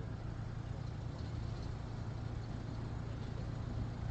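Steady low hum of motor vehicle engines idling, with a faint even background rumble.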